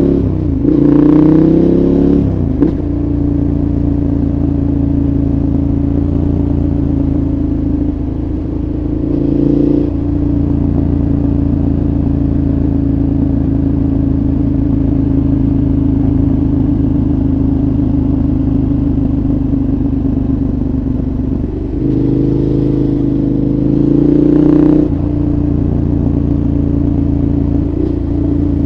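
KTM 1190 Adventure's 75° V-twin engine through a Giannelli aftermarket exhaust, heard onboard. It rises in revs in the first couple of seconds and again from about 22 to 25 seconds, and runs at steady revs in between and near the end.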